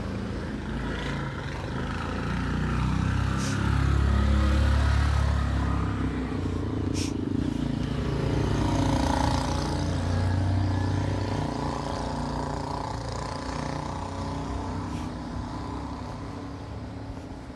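A motor vehicle's engine running as it passes close by on a street, growing louder over the first few seconds, loudest about four and again about ten seconds in, then fading away.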